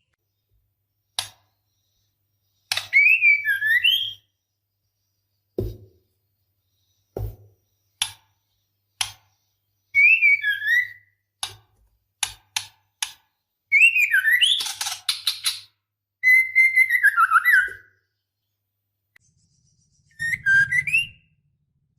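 Female white-rumped shama in breeding condition calling to a male: short whistled phrases that slide up and down, separated by pauses, with sharp single clicking notes scattered between them.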